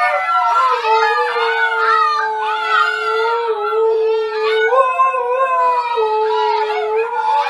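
Dogs howling together: long, overlapping held notes, one voice holding a steady pitch for several seconds while others waver above it.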